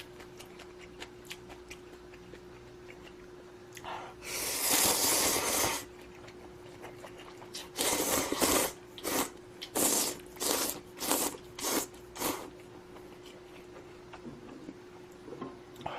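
A person slurping instant budae-jjigae noodles: one long slurp about four seconds in, then a run of about eight short slurps over the next several seconds. A faint steady hum sits underneath.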